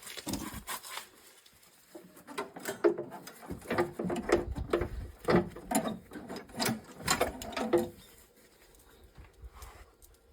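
Irregular clicking, tapping and knocking of hand tools working on the metal housing of an ABS hydraulic unit. The sounds are busiest from about three and a half to eight seconds in, then thin out.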